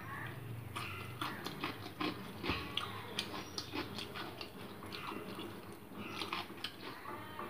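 Close-up eating sounds: a person chewing masala Maggi noodles, with many small irregular wet clicks and smacks, and a fork working through the noodles on the plate.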